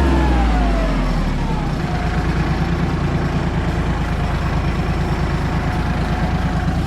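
Kubota L3540 tractor's diesel engine slowing from working speed over the first couple of seconds, its pitch falling, then idling steadily.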